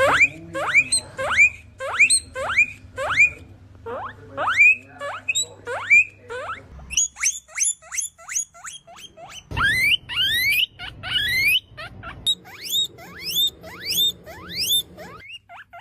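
Guinea pig wheeking: a long series of short, rising squeals, about two a second at first and then quicker and higher-pitched in the second half, the call a guinea pig makes when begging for food.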